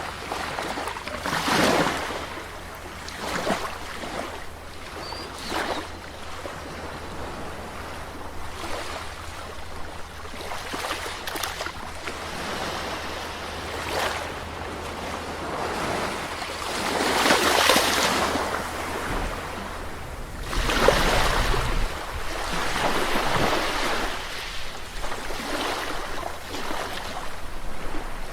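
Calm sea waves washing in one after another at uneven intervals, each a rising and falling rush of surf. The two biggest come a little past the middle, over a steady low rumble.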